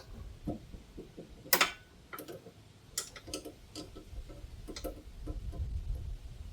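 Irregular sharp metallic clicks and clinks of hand tools being worked on car suspension parts, with one louder clatter about a second and a half in. A low rumble rises near the end.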